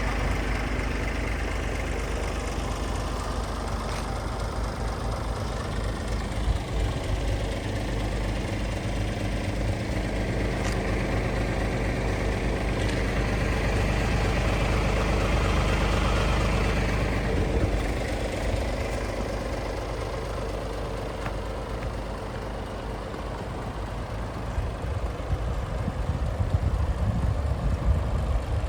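Scania R450 tractor unit's 13-litre straight-six diesel engine idling steadily.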